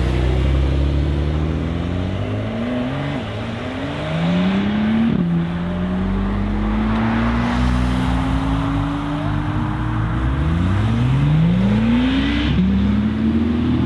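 Several sports cars' engines accelerating hard together, revs climbing in long rising sweeps and dropping sharply at upshifts about five seconds in and again near the end.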